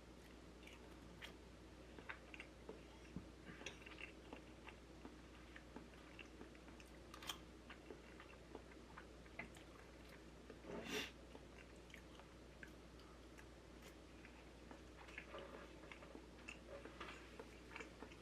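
A person quietly chewing food, with small scattered mouth clicks. There is one louder brief noise about two-thirds of the way through.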